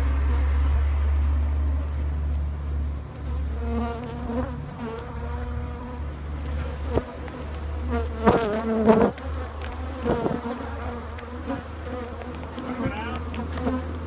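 Africanized honey bees buzzing around the microphone, the buzz swelling and fading, over a steady low rumble. Several sharp knocks or clicks fall in the middle.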